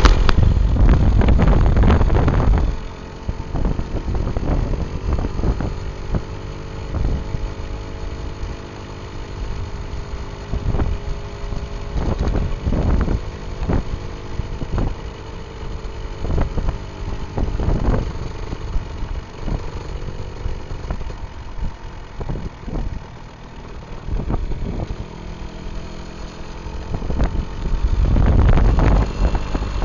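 Gilera RV motorcycle engine running as the bike is ridden along a road, with a steady engine note and wind buffeting the microphone. The buffeting is heaviest in the first few seconds and again near the end.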